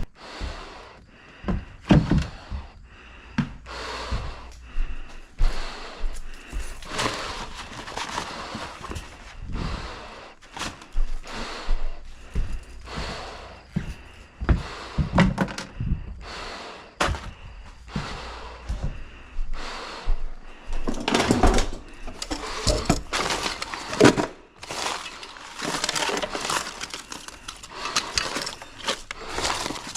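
Irregular knocks, thuds and clatters from hands-on clean-out and repair work, with some longer stretches of scraping or rustling.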